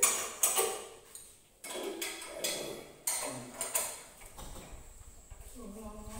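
Knocks and clinks of metal parts being handled on a stainless-steel gas stove top: several sharp ones in the first three seconds, each fading quickly, then a low rumble near the end.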